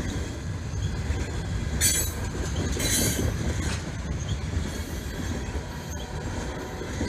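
Tropicana Juice Train freight cars rolling past with a steady low rumble and clatter, with two brief high-pitched wheel squeals about two and three seconds in.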